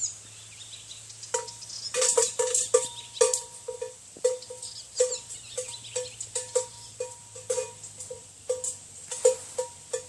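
Livestock bells clanking at an irregular pace, several strikes a second, each a short ringing clang at the same pitch, as the animals move and graze.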